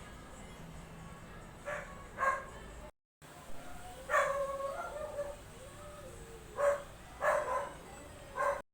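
A dog giving short barks, with a longer wavering whine in the middle.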